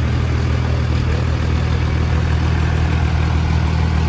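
Truck engine idling steadily, a low even drone.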